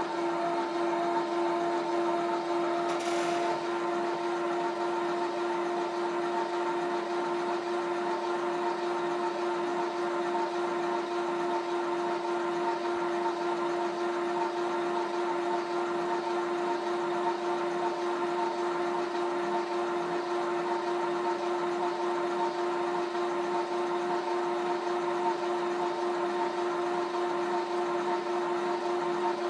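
A 1980s CM Electronics (Panama Fan Co.) gear-drive ceiling fan running on its single speed: the small motor turning a plastic gear gives a steady, loud whine with a strong low hum-like tone and higher tones over it. A short hissy noise comes about three seconds in.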